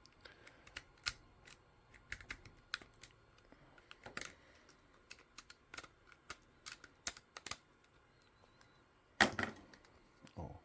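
Irregular sharp clicks and small snaps of hard 3D-printed plastic being handled and picked free of its support material, with one louder knock about nine seconds in.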